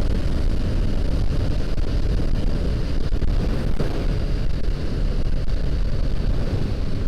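Honda CBR500R's parallel-twin engine running on the move, with steady wind rush over the microphone.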